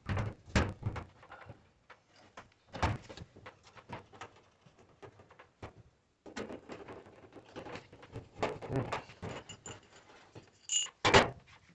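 Sheet-metal dryer cabinet panels being handled and seated: irregular knocks, clunks and rattles, with a louder clatter and a short metallic clink near the end.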